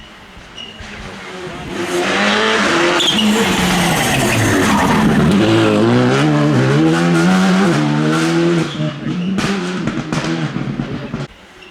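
A rally car comes past at speed, its engine revving hard and climbing through several gear changes. It then fades away with a few sharp cracks.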